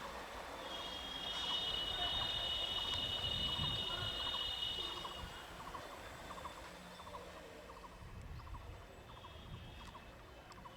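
Faint open-air ambience: a steady high-pitched whine for about four and a half seconds, fading out a little past the middle, over a row of short repeated chirps and a low rumble.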